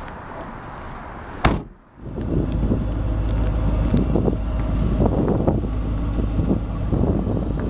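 The Mustang's trunk lid slams shut once, about a second and a half in. Right after, gusty wind buffets the microphone with a loud, uneven low rumble.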